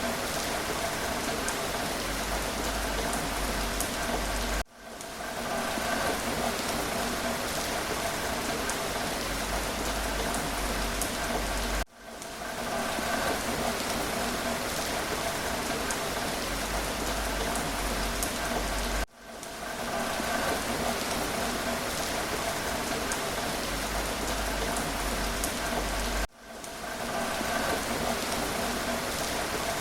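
Steady rain falling. It cuts out abruptly four times, about every seven seconds, and swells back in over about a second each time.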